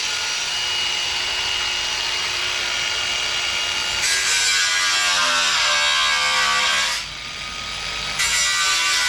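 A handheld power tool running on sheet steel, working through a tack weld that holds a cut-out piece of fender. It runs steadily, its pitch wavers under load from about halfway, and it eases off briefly near the end before biting again.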